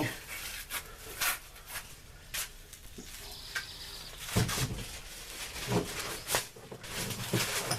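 Handling noises under the vehicle: scattered clicks and rustles of a rag and tools, with a few brief low thumps, while the rear differential oil drains.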